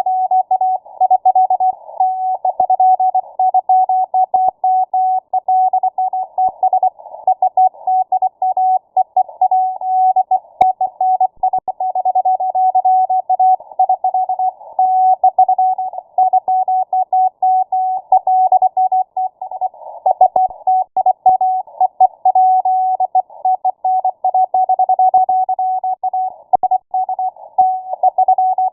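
Morse code (CW) on shortwave radio: a single steady beep of middling pitch, keyed on and off rapidly and without pause, heard through a receiver's narrow filter with band hiss around it.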